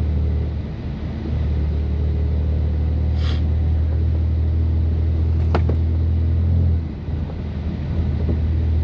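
2018 BMW M3 Competition's twin-turbo inline-six with a catless, open-valve exhaust, running with a steady low drone as the car drives slowly through snow. The drone dips briefly about a second in and again near the end. Two short higher sounds come through about a third and two-thirds of the way in.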